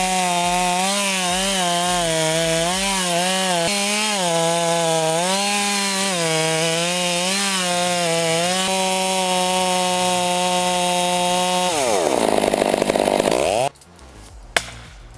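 Chainsaw running at full throttle, its pitch dipping and recovering again and again as it bogs down in the wood, then holding steady. Near the end the revs fall and climb back up. It cuts off suddenly, leaving a quieter scene with one sharp knock.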